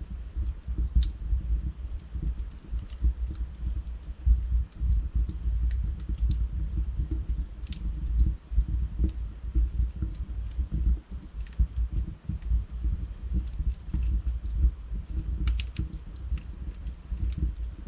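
Wood fire burning in a fireplace: a steady low rumble of the flames with scattered sharp crackles and pops from the logs, including a quick cluster of pops near the end.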